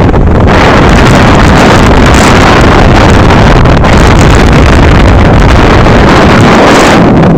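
Loud, steady wind rushing over the microphone, mixed with the noise of a moving vehicle.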